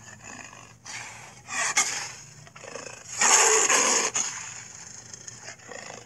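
Cartoon allosaurus roar and growl sound effects: several rough, noisy snarls, the longest and loudest about three seconds in, lasting about a second.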